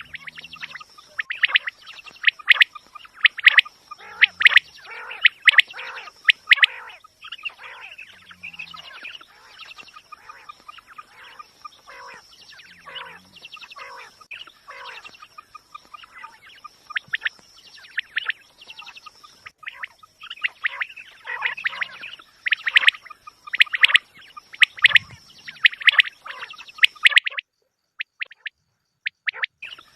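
Quails calling: dense, overlapping short chirping calls repeated rapidly over a faint, steady high tone. This is a quail-call recording meant as a hunting lure. The calling breaks off for about two seconds near the end, then resumes.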